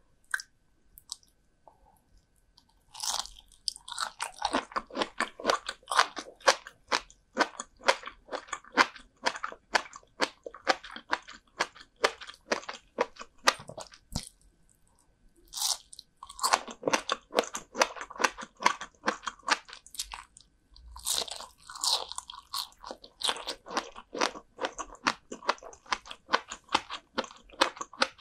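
Salted herring roe (kazunoko) being bitten and chewed, with a crisp, crunchy texture. A bite lands about three seconds in and is followed by quick crunching chews. Fresh bites come near the middle and again about three quarters through.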